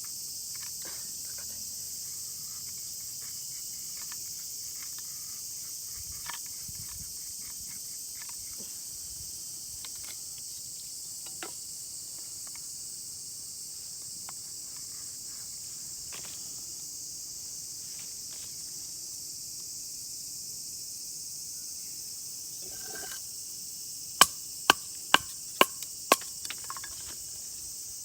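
Steady high chorus of insects, with faint scattered ticks, and near the end a quick run of five sharp knocks about half a second apart.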